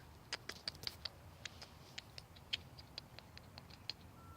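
A cat crunching dry food, a run of irregular crisp crunches a few per second.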